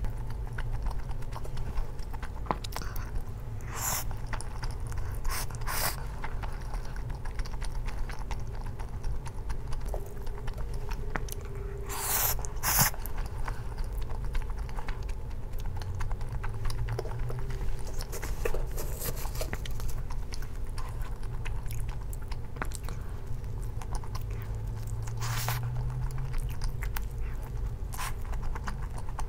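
Close-miked chewing and biting of spaghetti and pizza, with a handful of sharp clicks scattered through.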